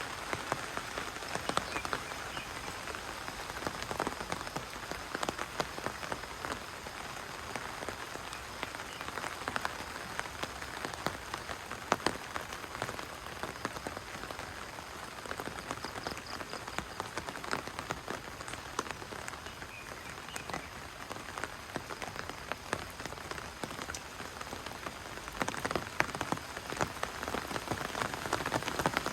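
Steady rain falling, with many separate drops striking close by as short, sharp ticks over the even hiss of the downpour.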